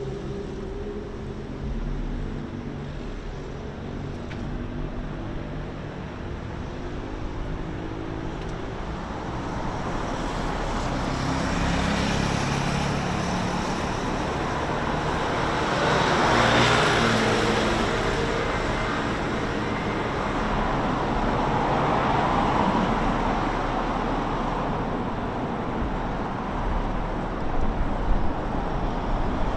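Road traffic: cars passing by, one passing close about halfway through and another a few seconds later, over a steady hum of engines.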